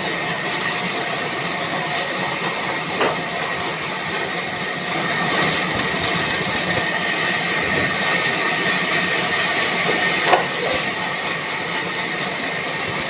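Band sawmill machine running with a steady loud hiss and a faint steady whine; the hiss gets brighter for a second or two midway, with a couple of faint knocks.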